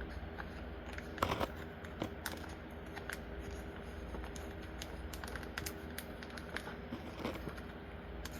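Tiny plastic toy pieces and their small bag being handled: scattered light clicks and taps, a cluster of louder ones about a second in, over a faint steady low hum.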